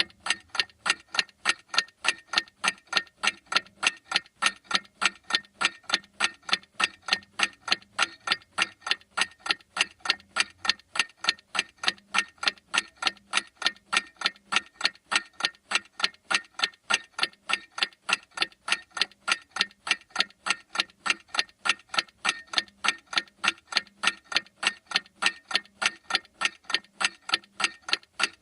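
Clock ticking in a steady, even rhythm of sharp ticks.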